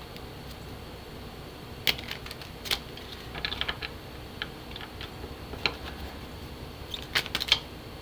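Oracle cards being handled and pulled from the deck: scattered light clicks and taps, with a quick run of them in the middle and again near the end.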